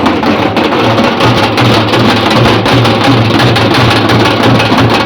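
A group of danka drums (large Indian folk kettledrums) played together in a loud, fast, dense beat, with a low thud pulsing about four times a second under a rapid clatter of strokes.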